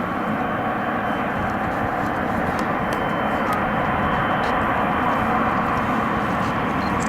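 Boeing 777-300ER's GE90 turbofan engines running steadily while the airliner taxis: a constant rushing noise with a faint high whine over it.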